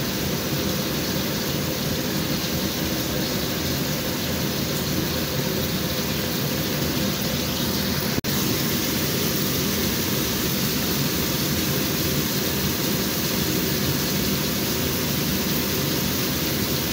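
Chicken pieces sizzling steadily in hot oil in a frying pan, with a momentary drop-out about eight seconds in.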